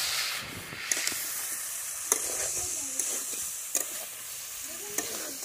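Duck meat and potatoes sizzling in a metal wok while being stirred with a metal spatula: a steady frying hiss, with the spatula scraping and clinking against the pan about five times.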